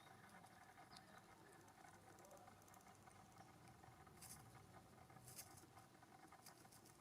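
Near silence with faint, scattered clicks and patter, typical of birds pecking and hopping in seed at a ground feeder.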